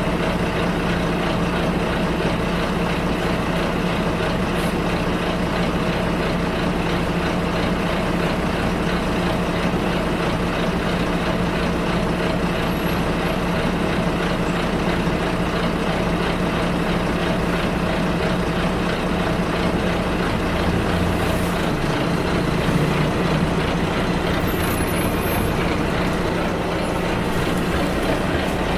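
Bus running along the road, heard from inside the cabin: a steady engine drone with road noise, the engine note shifting about three-quarters of the way through.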